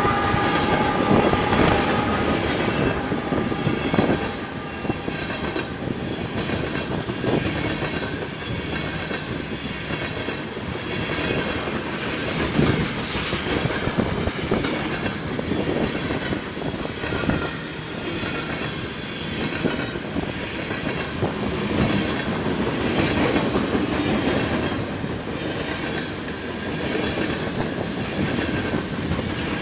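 A CN freight train rolling past, its wheels clacking steadily over the rail joints. A locomotive horn dies away about a second in.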